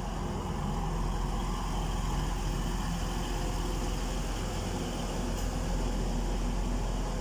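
Class 185 diesel multiple unit standing at the platform, its underfloor Cummins QSK19 diesel engines idling with a steady low rumble.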